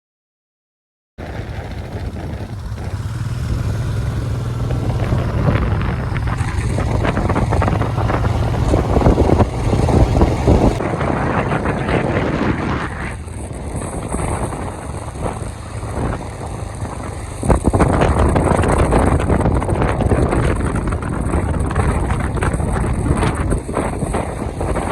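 Motorcycle on the move: heavy wind noise on the microphone over the low, steady hum of the engine, rising and falling in level. It begins after about a second of silence.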